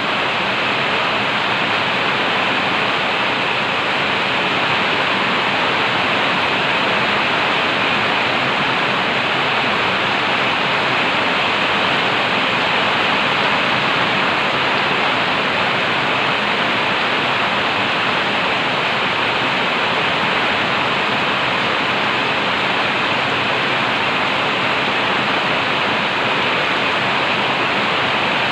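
Heavy rain pouring down in a steady, loud, unbroken hiss.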